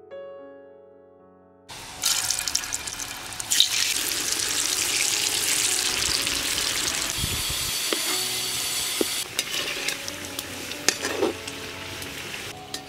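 Background music alone at first. From about two seconds in, food sizzles loudly as it fries in hot oil in a pan, settling to a quieter sizzle with a few sharp clicks near the end.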